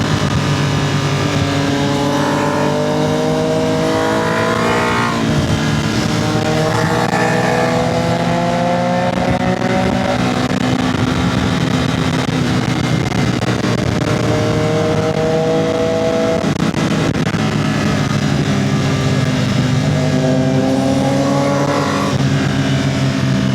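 Motorcycle engine accelerating hard through the gears, its pitch climbing and falling back at each upshift a few times, over steady wind rush.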